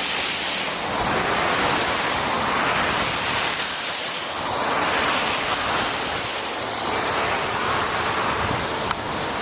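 Steady hiss of tyres and spray on a rain-wet road with wind on the microphone, swelling and fading about three times.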